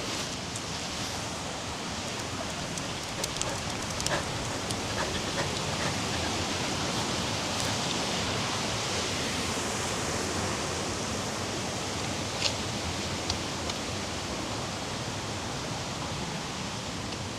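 Steady rushing of flowing water, an even hiss with no pauses, with a few short faint clicks scattered through it.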